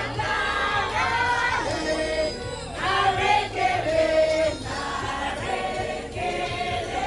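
A group of people singing together over background music.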